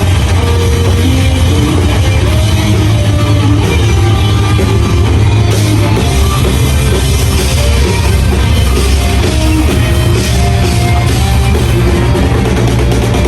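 Live metalcore band playing loud, dense heavy music: distorted electric guitars, bass and drum kit.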